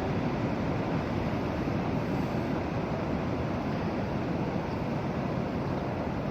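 Ocean surf breaking and washing up a beach, a steady rushing noise with no separate events, mixed with wind on the microphone.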